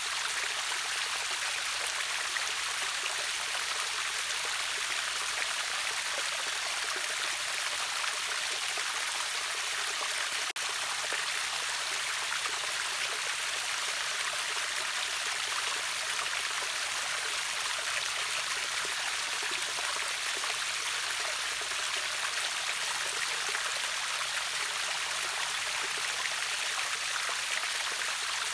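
River water pouring over a small waterfall: a steady, even rush of splashing water, with a momentary gap about ten seconds in.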